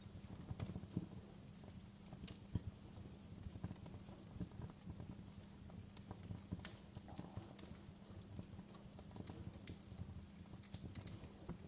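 Wood fire crackling: irregular pops and snaps, one louder pop about two and a half seconds in, over a low rumble and a steady low hum.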